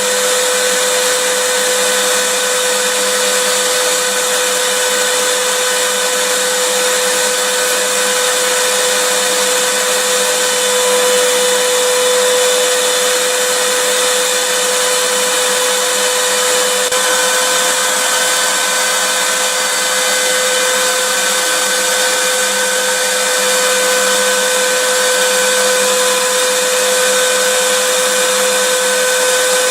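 Vacuum cleaner running steadily, a constant whooshing roar of motor and airflow with a steady hum.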